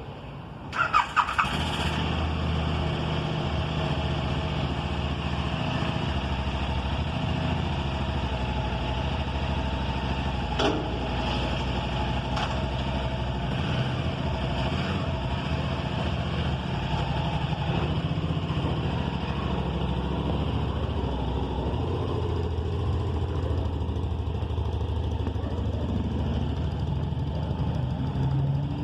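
KTM motorcycle engine starting about a second in, with a few sharp bursts as it catches, then running steadily.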